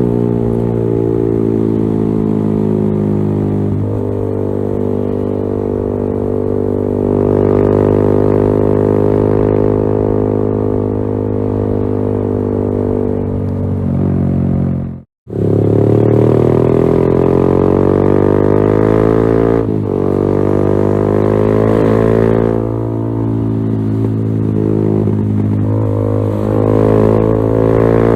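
Yamaha XSR 155's single-cylinder engine running through a LeoVince GP Corsa Evo aftermarket exhaust, holding fairly steady revs with small rises and falls in pitch. It cuts out abruptly for a moment about halfway through, then carries on.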